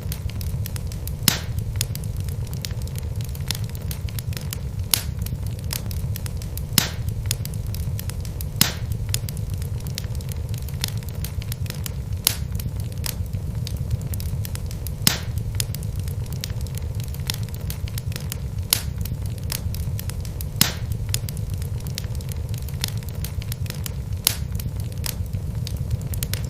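Wood logs burning in a fireplace: a steady low rumble of the flames with sharp crackles and pops at irregular intervals, roughly one every one to two seconds.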